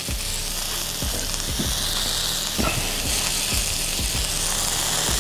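Bacon and baby bella mushrooms sizzling in a hot skillet in bacon grease: a steady hiss broken by scattered pops.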